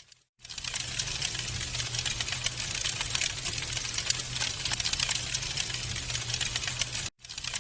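Wood fire in a fireplace crackling, with dense rapid pops and snaps over a low steady rumble. The sound cuts out briefly just after the start and again near the end.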